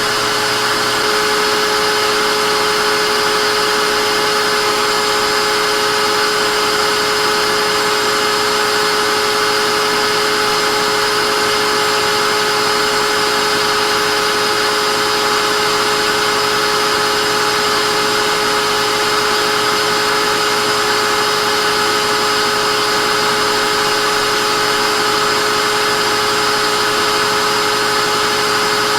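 Vacuum cleaner motor running steadily: an even rush of air with a steady whine.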